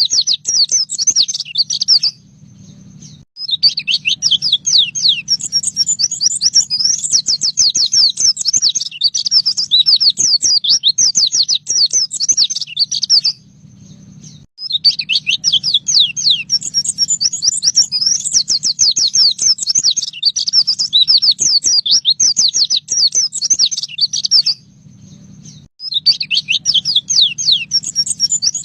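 Pleci (white-eye) singing 'nembak': long runs of rapid, high, downward-sweeping chattering notes, each run about ten seconds long, with short pauses about two seconds in, near the middle and near the end. A steady low hum runs underneath.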